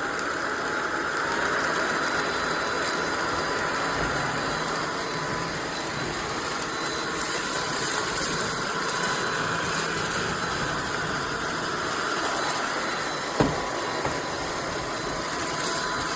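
SunSare X11 cordless stick vacuum running on full power mode: a steady motor whir and suction rush with a faint whine. One short knock about thirteen seconds in.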